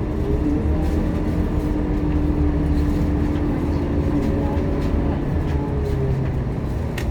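Scania K230UB city bus under way, heard from inside the bus: a steady low engine and drivetrain rumble with a thin whine that moves higher about two-thirds of the way through, and a few light rattles.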